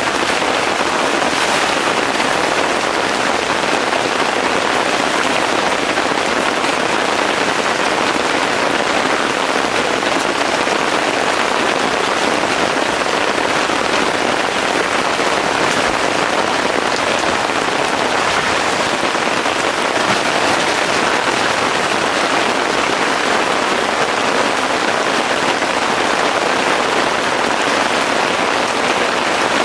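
Heavy rain falling steadily, an even dense hiss and patter with no break.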